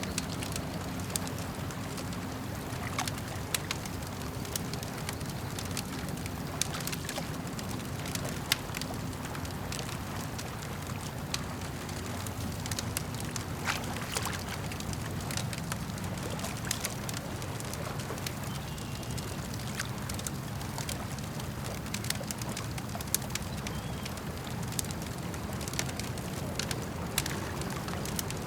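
Wood campfire crackling, with sharp irregular pops and snaps every second or so, over a steady low wash of lake water lapping.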